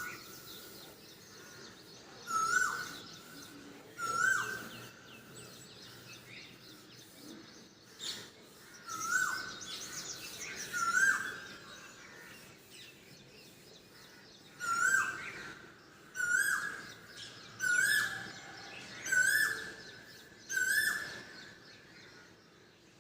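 Asian koel (koyal) calling: about nine loud, rising 'ku-oo' notes, spaced a second and a half to two seconds apart, with a pause in the middle of the run. Other small birds chirp faintly in the background.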